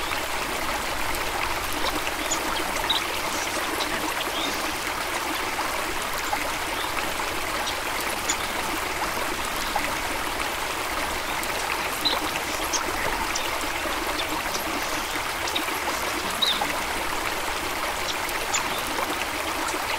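Water stream flowing steadily over stones, a continuous trickling and babbling, with a few brief bright plinks standing out now and then.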